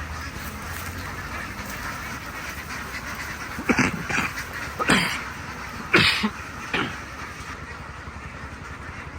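A steady din from a duck flock, with about five loud, short animal calls close together in the middle.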